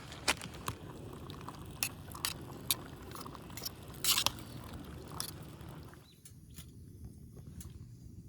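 Wood fire crackling, with irregular sharp pops over a low steady rumble; the pops thin out about six seconds in.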